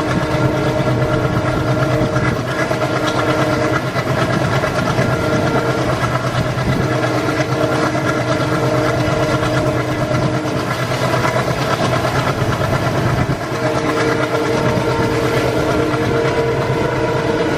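Indian Railways train running with a steady low hum while its horn sounds in three long blasts, one near the start, one in the middle and one near the end.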